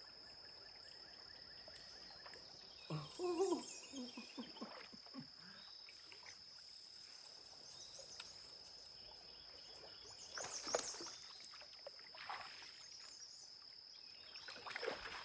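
A steady high-pitched insect drone, the chorus of cicadas in the emergence, runs throughout. Short bouts of water sloshing and splashing come a few seconds in and again near the end.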